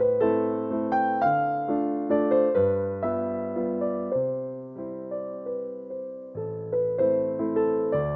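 Background piano music: a slow waltz in A minor with notes struck in a steady three-beat pattern, each dying away.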